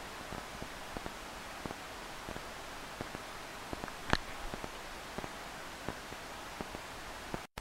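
Steady hiss of rain with scattered drops ticking close to the microphone, one tick louder about four seconds in; the sound cuts out for an instant near the end.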